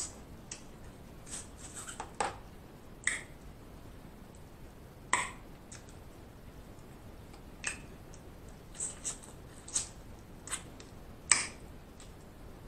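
Close-miked eating: scattered sharp, wet mouth clicks and smacks as food is chewed, about fifteen in all at irregular intervals, the loudest a little before the end.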